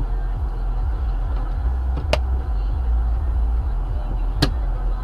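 Steady low rumble of a moving road vehicle, with two sharp clicks about two seconds apart.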